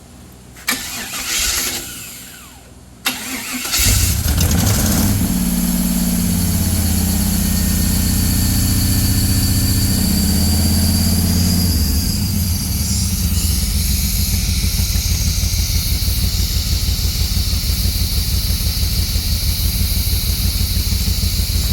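The swapped-in car engine in a mud buggy is cranked by its starter in short bursts, then catches about four seconds in and runs fast. About twelve seconds in it settles to a steady, pulsing idle, running without knocking.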